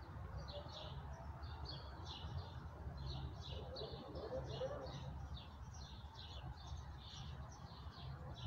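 Songbirds chirping in short high notes repeated about three times a second, over a steady low rumble.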